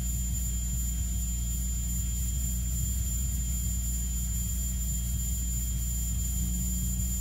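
Steady low electrical hum with a faint, constant high-pitched whine, the idle hum of the venue's sound system and room before the music cue.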